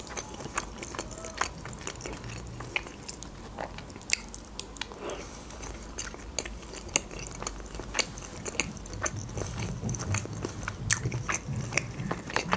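Close-miked chewing of boiled pelmeni dumplings, with irregular wet mouth clicks and smacks throughout.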